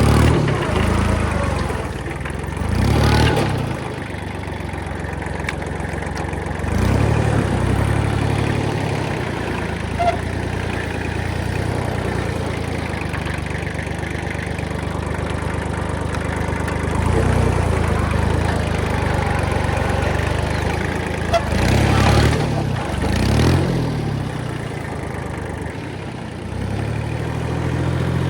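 Kubota machine's diesel engine running steadily, rising briefly in pitch and load about six times as it works.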